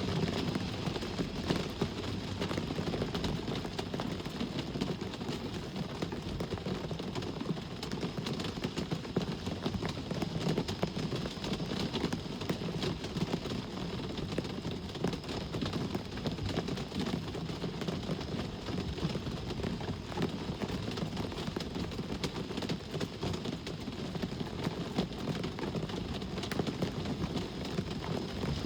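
Steady rain falling, with many small drop impacts ticking on hard surfaces over a low, even rumble of road traffic.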